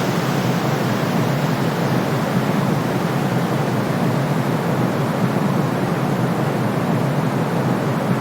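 Steady, unbroken white noise with a deep, rushing tone, played to soothe a colicky baby.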